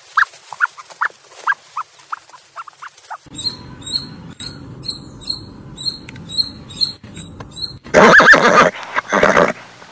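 A run of short chirps, then a gray squirrel's high, squeaky calls repeated about twice a second. About 8 s in, a horse neighs loudly.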